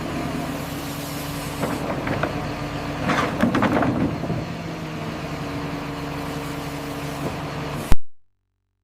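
Heavy diesel logging machine engine running steadily, with a run of cracking and knocking about three to four seconds in. The sound ends in a sharp click and cuts off abruptly near the end.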